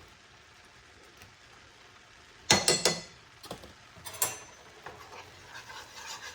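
Kitchen utensils clattering and clicking against a skillet: a loud cluster of knocks about halfway in, a couple of single clicks after it, then faint scraping as the flour is stirred into the melted butter for a roux near the end.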